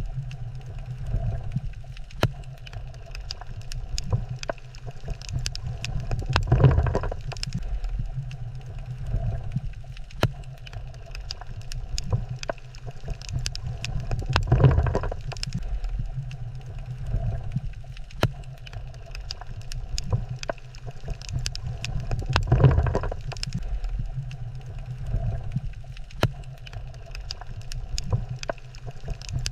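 Underwater reef ambience: a steady low rumble with a constant crackle of sharp clicks, swelling into a louder whoosh about every eight seconds.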